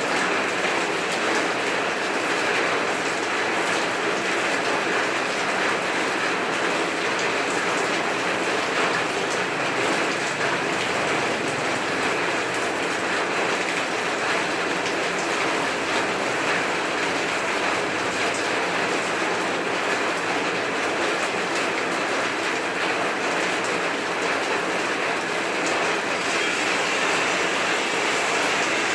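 Heavy rain falling in a steady downpour, a dense even hiss of many drops that holds at the same level throughout.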